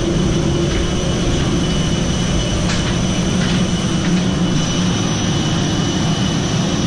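Airbus A321 cabin noise: a steady low rumble with a high jet-engine whine, as the airliner taxis after landing.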